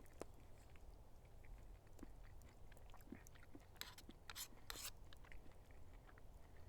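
Faint eating sounds from a person at breakfast: soft chewing and small spoon clicks, then three short slurping sips about four to five seconds in.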